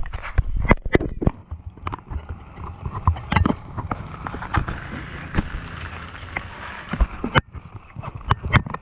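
Footsteps on a walking tour: irregular knocks and clicks, a few of them heavy. A hiss swells for a few seconds in the middle and then drops away.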